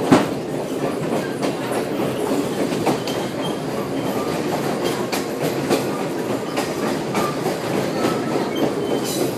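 Vintage passenger coach riding over the rails, heard from inside the car: a steady rumble and rattle with scattered clicks from the wheels and car body. There is a sharp knock just at the start.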